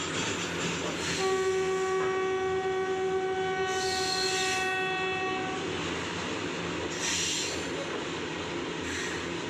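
WAG-7 electric locomotive's air horn sounding one long, steady blast of about four and a half seconds, over the running noise of a passing freight train of BOXNHL wagons.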